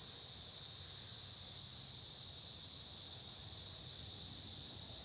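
Steady, unbroken high-pitched insect chorus, crickets or cicadas, with a faint low rumble underneath.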